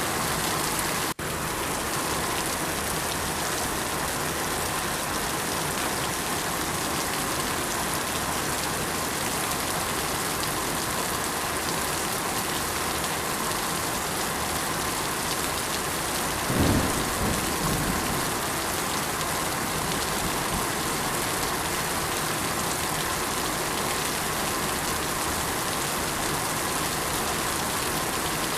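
Steady, dense rain pouring down, with a short low rumble of thunder a little past the middle. The audio drops out for an instant about a second in.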